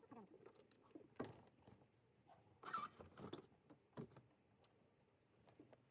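Faint scattered knocks, clicks and rustles of household objects being handled during moving work, with a louder clatter a little before three seconds in.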